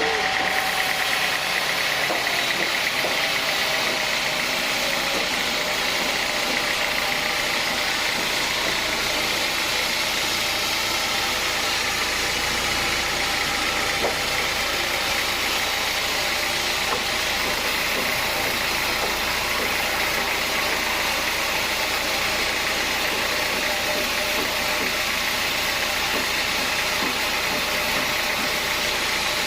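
Sawmill saw and its machinery running steadily, a continuous even mechanical noise.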